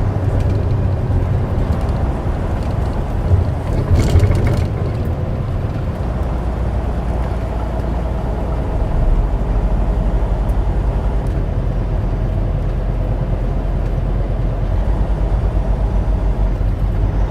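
Semi truck's diesel engine and road noise heard inside the cab while driving: a steady low drone, with a brief clatter about four seconds in.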